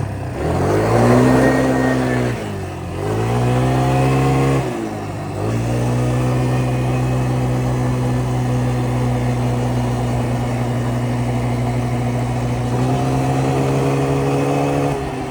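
Small four-stroke single-cylinder engine of a Yamaha Grizzly 125 ATV under throttle while riding. It revs up and eases off twice in the first few seconds, then holds a steady high engine speed, rising slightly near the end.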